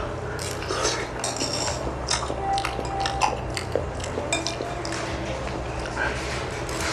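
A person eating: chewing, with utensils clicking and clinking against dishes in quick, irregular taps.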